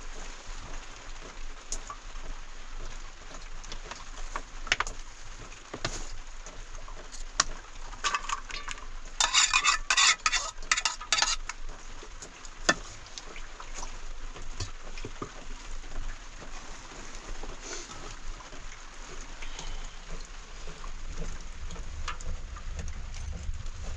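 Cooking and kitchen sounds: scattered clinks and knocks of utensils against a pot or pan over a steady hiss, with a dense run of rapid scraping and clattering about nine to eleven seconds in.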